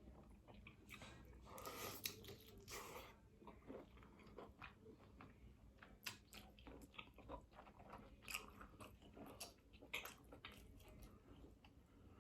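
Close-miked mouth sounds of eating a seafood boil: chewing, lip smacks and wet clicks, faint but distinct, with a longer, louder noisy stretch about two seconds in.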